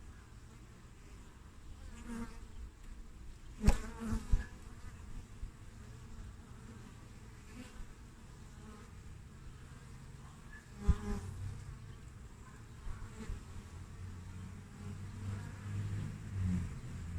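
Honeybees buzzing at a hive entrance as they fly in and out, the buzz growing louder over the last few seconds. Short sharp clicks cut through it, the loudest about four seconds in and another about eleven seconds in.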